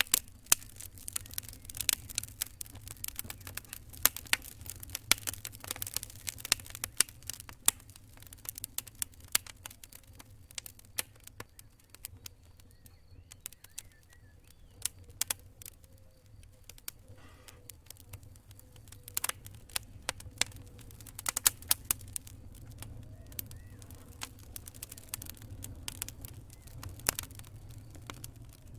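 Campfire crackling: sharp irregular pops and snaps over a low steady rumble of burning, thicker in the first half.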